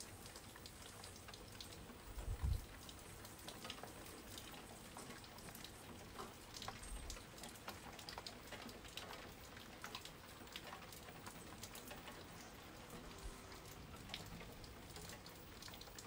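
Faint rain: scattered raindrops ticking irregularly on a surface, with one low thump about two and a half seconds in.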